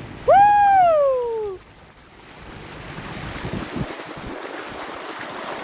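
A person's long "woo" call that rises briefly and then slides down, about a second long near the start; then steady wind buffeting the microphone with the wash of sea water around the boat.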